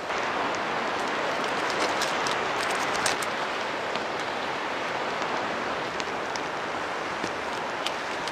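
Steady rain hiss with scattered sharp ticks of drops.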